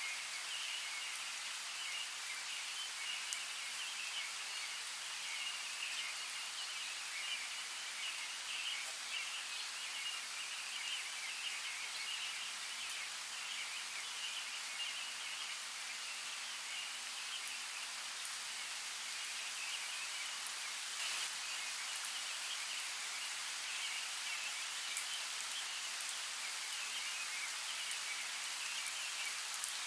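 Steady rain falling, with scattered ticks of single drops and a continuous flickering high-pitched chorus underneath.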